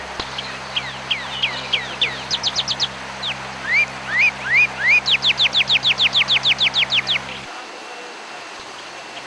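Songbird singing: quick downward-sweeping whistled notes, some rising then falling, then a fast even run of about fifteen notes that stops about seven seconds in.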